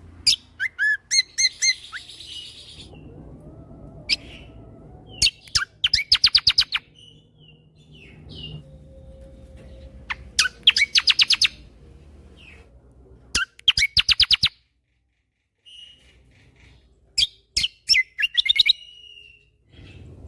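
Kecial kombo (cucak kombo) songbird singing in rapid-fire "tembakan" bursts: quick runs of sharp high notes, each about a second long, with single chirps and short pauses between them.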